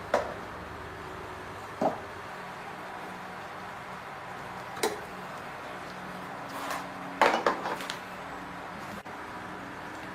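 A few scattered clinks and knocks of tools and parts being handled during washing machine repair work: single ones near the start, at about two seconds and about five seconds, then a quick cluster of several around seven seconds. A steady low hum runs underneath.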